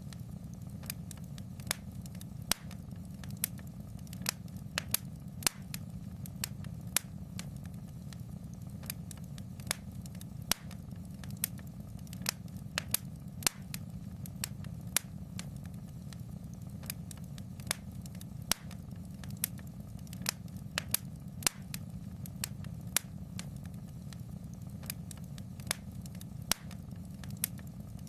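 Wood fire in a fireplace crackling: sharp, irregular pops and snaps, a few a second, over a steady low rumble of the flames.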